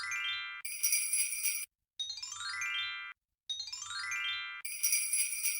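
Magical chime sound effect: a quick descending run of tinkling bell-like notes, sometimes followed by a bright high shimmer, repeated about three times with short silent gaps.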